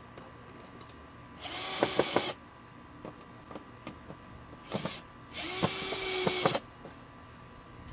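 Handheld power drill-driver running in two bursts of about a second each, with a brief blip between them.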